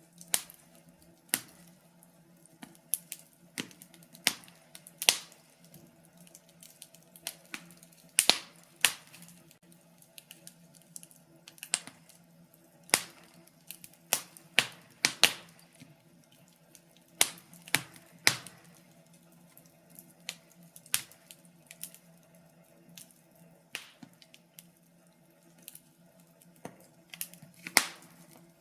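Wood fire crackling: irregular sharp pops and snaps, one or two a second and varying in strength, over a faint steady low hum.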